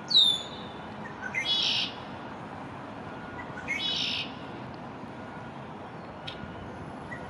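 First-spring male red-winged blackbird calling. A sharp, shrill descending whistle comes right at the start, followed by a harsh, buzzy trill about a second and a half in and again near four seconds.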